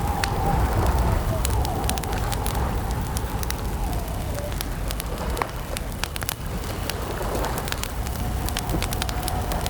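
Campfire crackling, with frequent sharp pops of burning wood over a low steady rush. A faint wavering tone runs underneath.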